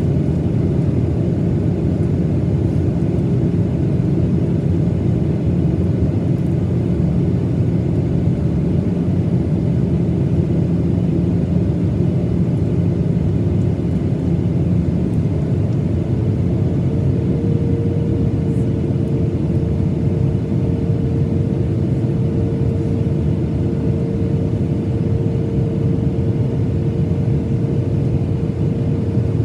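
Cabin noise of a Boeing 737-900ER in flight: the steady roar of its CFM56 engines and the airflow, with a hum that steps up slightly in pitch about halfway through.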